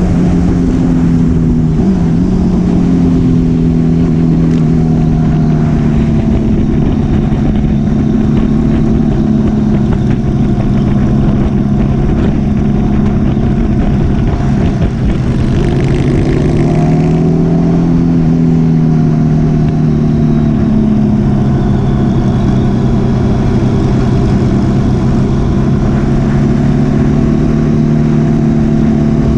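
Motorcycle engine running at steady cruising revs, its pitch easing up and down a few times as the throttle changes, over a constant rush of wind noise.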